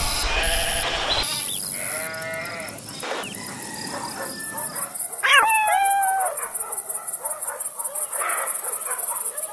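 Animal calls: several separate pitched cries, the loudest a sharp call about five seconds in that drops in pitch and then holds for about half a second.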